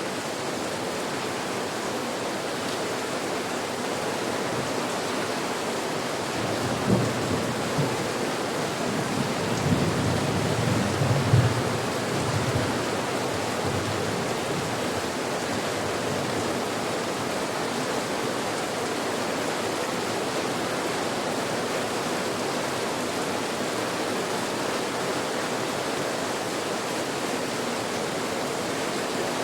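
Steady rain falling, an even hiss, with a low rumble of thunder rolling through from about seven to twelve seconds in.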